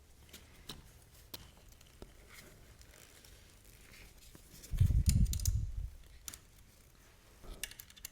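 Faint clicks and scrapes of the side stand extension's screws being fitted and tightened by hand, with a dull thump about five seconds in and a few quick clicks near the end.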